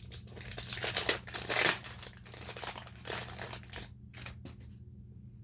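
Plastic toy packaging rustling as it is handled and opened, in irregular bursts, loudest about a second and a half in and stopping shortly before the end.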